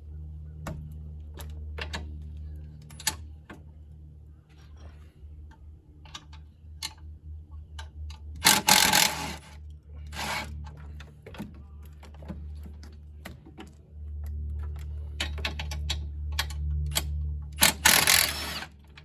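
Scattered clicks and clatter of hand work with tools and parts, over a low steady hum. Two short, loud rushing bursts stand out, one about halfway through and one near the end.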